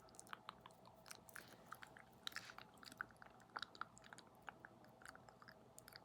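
ASMR mouth sounds close to the microphone: soft, wet, irregular clicks and smacks, several a second.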